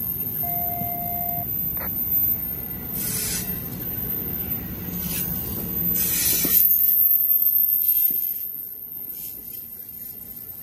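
Amtrak passenger cars rolling past at low speed, their wheels rumbling steadily on the rail, with a short squeal about half a second in. Two louder rushes of hiss come about a third of the way in and just past halfway, and the rumble eases after about two-thirds of the way through.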